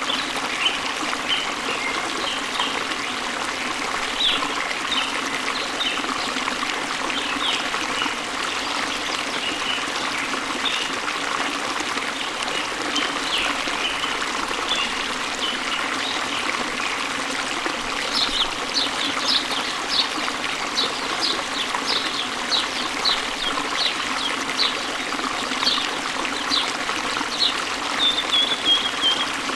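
A stream running steadily, with small birds chirping over it. About two-thirds of the way in, a bird starts a run of short high calls, about two a second, that ends in a brief trill.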